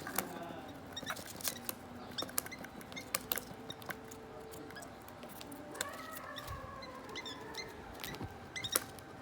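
Three-week-old African lovebird chicks moving about, making many small irregular clicks and taps, with a few faint squeaky calls, one falling in pitch about six seconds in.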